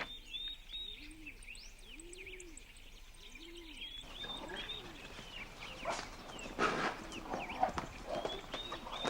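Small birds chirping over and over in a natural outdoor soundscape. There is a low, repeating sound in the first half, and a few knocks and rustles in the second half.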